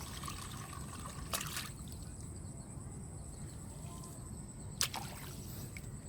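Water trickling and sloshing, with two sharp knocks, about one and a half and about five seconds in, over a steady high whine.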